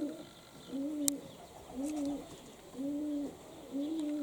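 Domestic pigeon cooing: a steady series of short, low coos, about one a second. A single sharp click about a second in.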